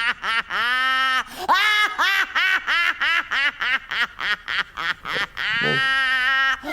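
A cartoon character's rapid, nasal, quack-like gibberish: a quick run of short syllables, each rising and falling in pitch, with a longer held note near the end.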